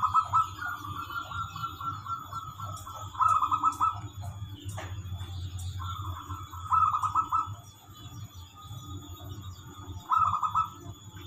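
Zebra dove (perkutut) singing its cooing song in rapid, bubbling pulsed phrases: a long phrase over the first four seconds, another about six seconds in, and a short one near the end.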